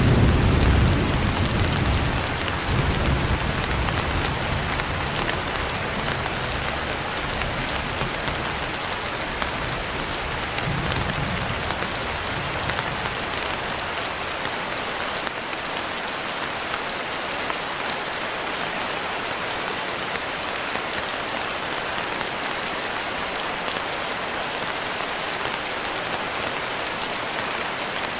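Steady rain falling, with a low rumble of thunder at the start that rolls on, swells once more about eleven seconds in, and fades out after that.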